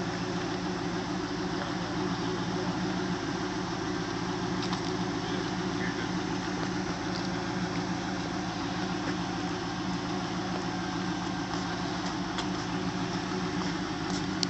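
2000 Pontiac Trans Am WS6's 5.7-litre LS1 V8 idling steadily as the car creeps along at low speed.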